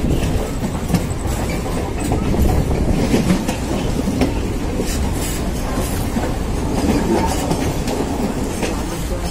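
Electric multiple unit local trains running side by side, a steady rolling rumble from wheels on the track with scattered clicks and clatter from the rails.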